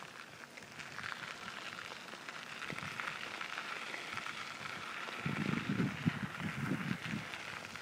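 Bicycle rolling along a park path: steady crackling hiss of the tyres on the path surface, with a few low rumbles from about five seconds in.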